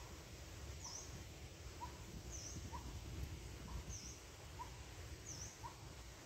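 Faint bird calls: one bird repeats a short note about every two-thirds of a second, and another gives a thin, high call about every second and a half, over a low steady rumble.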